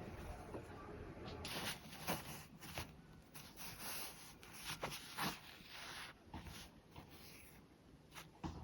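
Quiet, irregular rustling and brushing of cotton shirt fabric being handled, with a few light clicks and taps.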